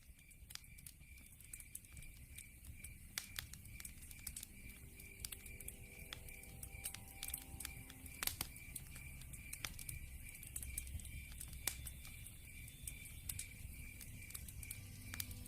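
Log fire crackling with irregular sharp pops over a low rumble. A cricket chirps steadily behind it, about three pulses a second.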